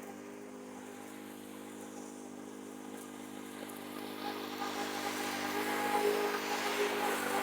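Petrol lawn mower engine running at a steady speed, with a rushing noise that builds from about four seconds in as the sound grows louder.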